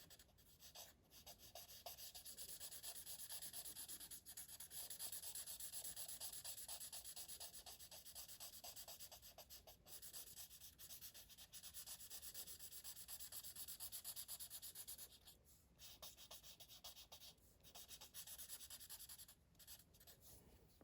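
Black marker colouring in on paper: faint, quick back-and-forth scribbling strokes, with a couple of short pauses near the end.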